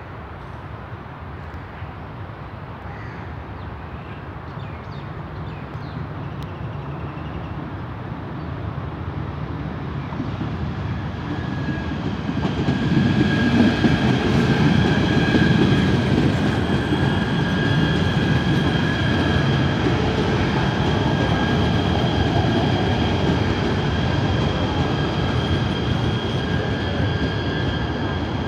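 KTM Class 92 electric multiple unit approaching and arriving, growing steadily louder for about the first 13 seconds. It then runs past with a loud, steady rumble of wheels on rail and several steady high-pitched tones over it.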